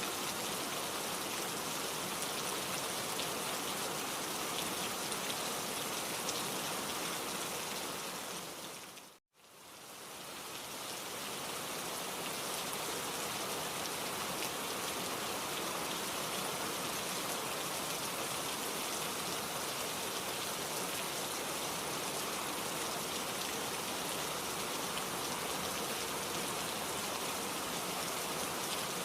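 Steady rain. About nine seconds in it fades out to a brief moment of silence, then fades back in over a couple of seconds, as at the join of a looped recording.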